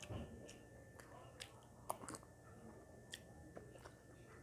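Faint chewing of a mouthful of rice and vegetables, with a few short, sharp clicks scattered through it.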